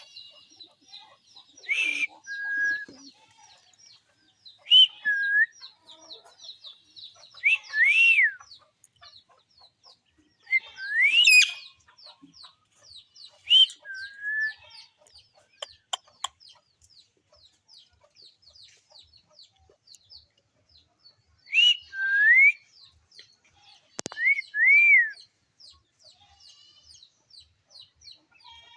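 Parrots calling: loud, clear whistled calls that rise and fall, in short groups every few seconds, over a steady rapid high-pitched twittering.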